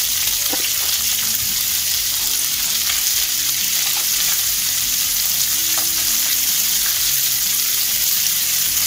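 Chopped onion and capsicum frying in hot oil in a wok, a steady, even sizzle.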